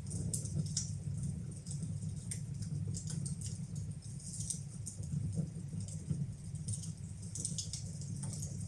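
Fire burning in a fireplace: irregular crackles and pops over a steady low rumble.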